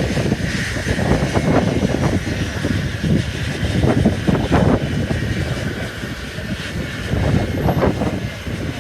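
Jet airliner engines running, with heavy wind buffeting on the microphone making a gusty, uneven rumble.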